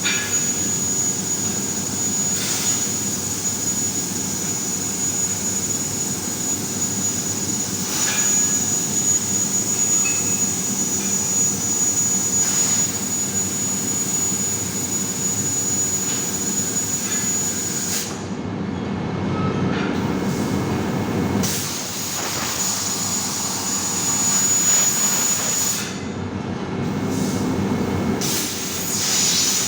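Industrial laser cutting machine running: a steady mechanical hum and hiss with a constant high-pitched whine. The high hiss cuts out briefly twice, about two-thirds of the way through and again near the end.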